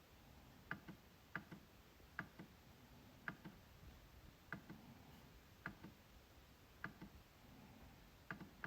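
MacBook trackpad being clicked, about once a second at an uneven pace. Each click is a quick pair of ticks, press then release, over a near-silent room.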